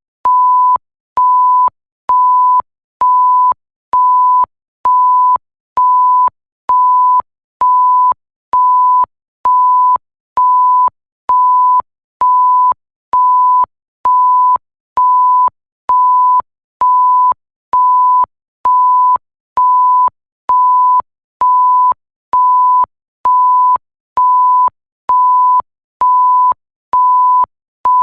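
Electronic bleep: a single pure, steady tone sounding in short, evenly spaced beeps, each about half a second long, a little faster than one per second, all at the same loud level.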